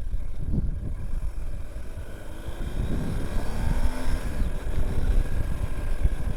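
Motorcycle engine running under way, mixed with wind rush on the microphone; the engine note climbs about halfway through as the bike accelerates.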